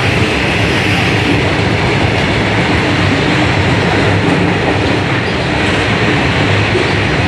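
Train passing a station platform at speed: a loud, steady noise of wheels on rails and moving wagons.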